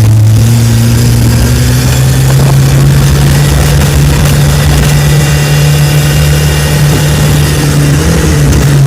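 Vehicle engine running loudly at a steady pitch, with a brief slight rise in revs near the end.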